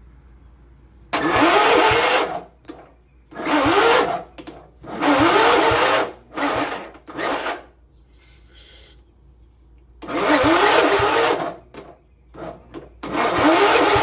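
Kohler Magnum 14 single-cylinder engine being cranked by its electric starter in repeated short bursts of about a second each, each with a rising whine as the starter spins up. The engine does not start, because it isn't drawing fuel.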